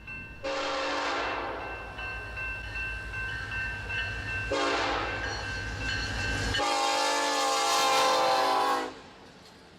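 Diesel freight locomotive's air horn sounding long blasts as the train approaches, over the low rumble of the engines; the pitch drops suddenly as the locomotive passes, and the horn stops about nine seconds in.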